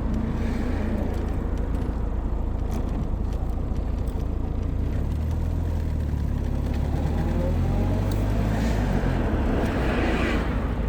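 Old car on the move, heard from inside the cabin: a steady low engine drone with road noise. The engine note shifts about halfway through, and the noise swells near the end.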